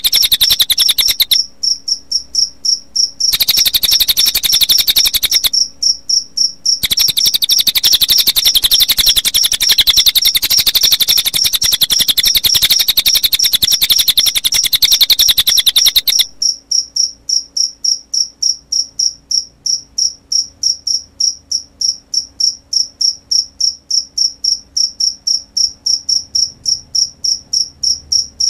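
Recorded cililin bird song, rapid high trills in three bursts, layered over a cricket chirping steadily; the bird stops about sixteen seconds in, leaving only the cricket's chirps at about three a second. A bird-training sound track for keepers to play to their birds.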